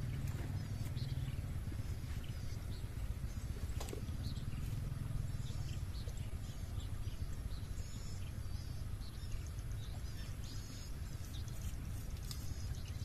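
Birds chirping in the background, the short high calls coming more often in the second half, over a steady low rumble, with a few faint clicks.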